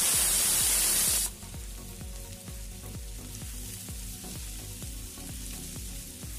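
Sliced broad beans, carrot and onion sizzling loudly in hot oil for about the first second and a half, then sizzling more quietly while a wooden spatula stirs them, over background music with a steady beat.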